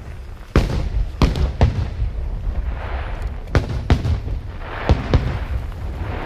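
Aerial fireworks bursting overhead: about seven sharp booms at uneven intervals over a continuous low rumble, with hissing crackle between the bangs.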